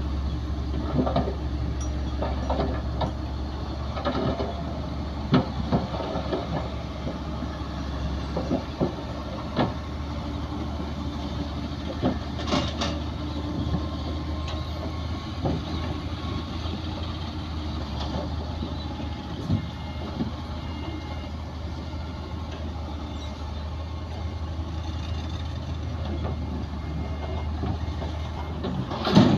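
Heavy earthmoving machinery running with a steady low engine drone, with scattered sharp clanks and knocks throughout and a louder clatter near the end.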